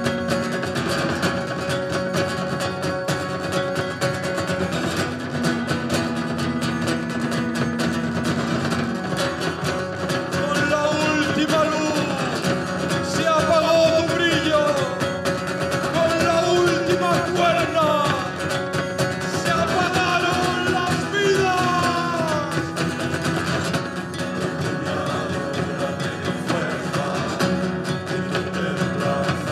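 Live acoustic band music with guitar strumming. A wavering melody line comes in over it about ten seconds in and drops away a little after twenty seconds.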